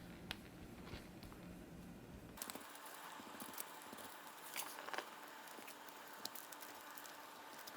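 Faint rubbing of a cloth working polishing wax onto a clear plastic model-kit part, with scattered light ticks and clicks.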